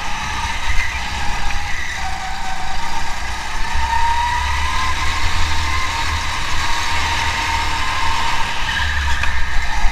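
Car engine running at steady, moderate revs, its note drifting slowly up and down over a constant low rumble.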